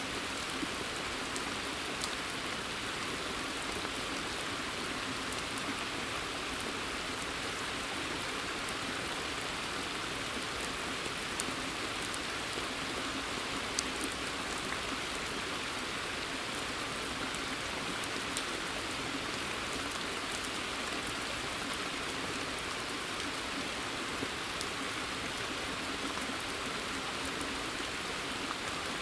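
Steady rain falling in a forest and onto a pond's surface: an even hiss with scattered sharper drip ticks, a few louder ones standing out.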